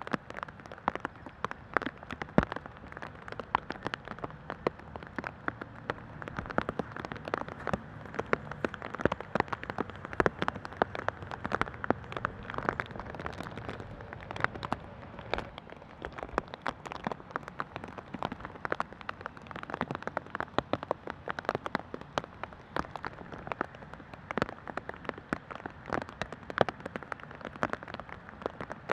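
Rain falling steadily, with a dense run of separate drops striking close by as many sharp ticks.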